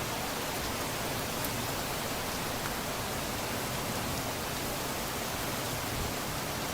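Steady rain falling, an even hiss of drops with a few faint ticks of single drops.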